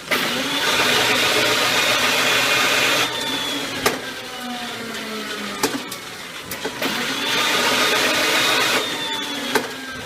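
Electric motor of a rebar machine running in cycles: loud and steady for about three seconds, easing to a quieter run with a few sharp metallic clicks and a falling whine, then loud again near the end.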